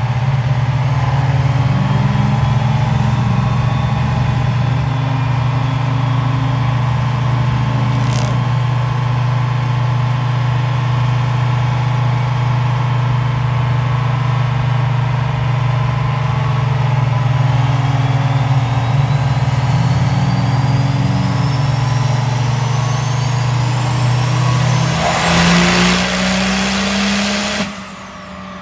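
Diesel pickup truck engine under load on a chassis dyno during a pull: a loud, steady drone, with a whine that climbs in pitch over the second half. A loud rushing noise builds near the end and then cuts off suddenly.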